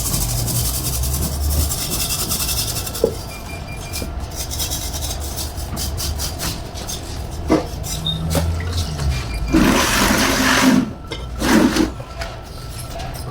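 Liquid splashing and pouring in a few noisy bursts, most strongly near the end, over a low steady hum: parts being washed during an alternator cleaning.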